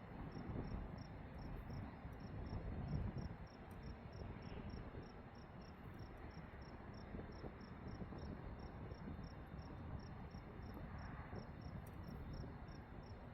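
A cricket chirping steadily, about three short chirps a second, over a faint low rumble.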